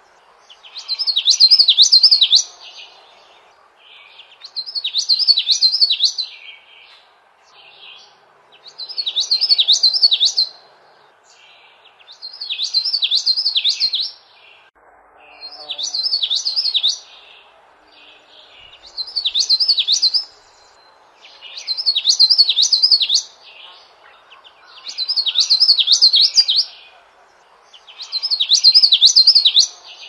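A songbird singing the same quick phrase of high, rapidly warbled notes over and over, about nine times at roughly three-and-a-half-second intervals, over a faint steady background hiss.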